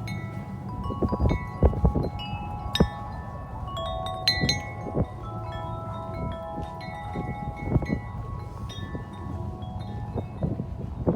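Corinthian Bells 36-inch wind chime ringing steadily in strong, gusty wind, several tubes struck again and again so their tones overlap and hang on. Wind rumbles and buffets the microphone underneath.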